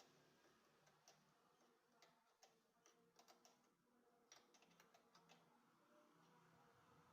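Faint, irregular light clicks and taps, most of them between about one and five and a half seconds in, over quiet room tone.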